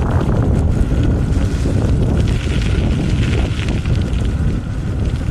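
Wind buffeting the microphone of a camera mounted on a moving bicycle: a loud, steady, low rumble.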